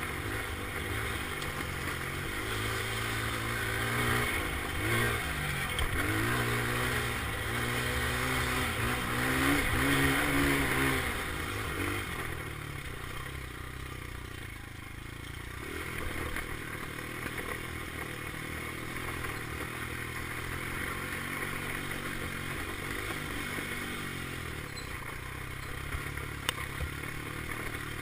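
Dirt bike engine revving up and down as it is ridden, its pitch rising and falling repeatedly. It is loudest over the first twelve seconds, then fainter and more distant, with one sharp click near the end.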